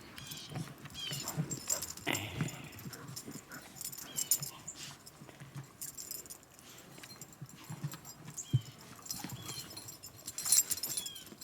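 Dogs playing in snow: a soft rhythm of panting and paw steps, with a few short high whimpers.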